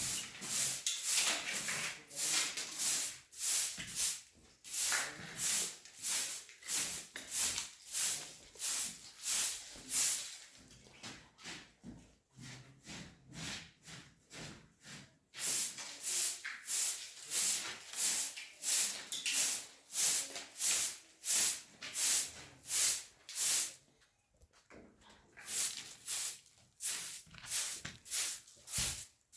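Rhythmic scraping strokes, about two a second, in runs broken by short pauses.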